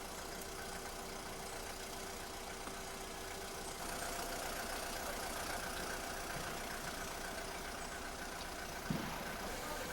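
An engine running steadily at idle. It grows a little louder about four seconds in, and there is a single knock near the end.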